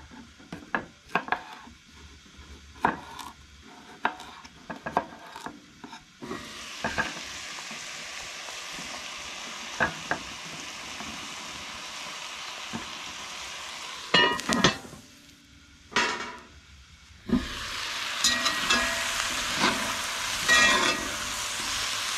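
Chef's knife cutting baby potatoes on a wooden cutting board, a run of short taps, then ground venison and vegetables sizzling in a cast-iron Dutch oven. A few loud knocks come around the middle, the sizzle dips briefly, then returns louder with a spatula clattering against the pot as the potatoes are stirred in.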